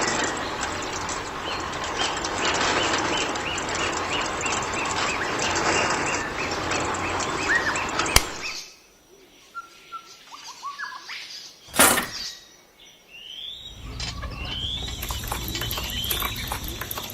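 Birds chirping in quick repeated calls over a dense rushing noise that stops about eight and a half seconds in. Scattered chirps continue, with one sharp knock near the middle, and the noise with chirping returns near the end.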